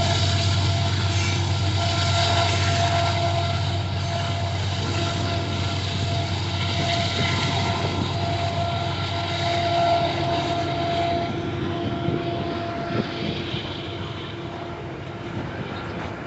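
A train running past with a steady low rumble and rail noise, with a thin steady whine. The sound fades over the last few seconds as it draws away.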